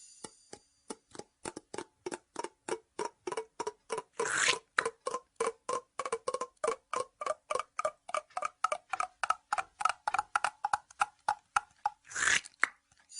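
A steady series of sharp clicks, about three a second, like a clock or wind-up toy ticking, each with a short pitched knock whose pitch drifts up and down. Two brief whooshes come about four seconds in and again near the end.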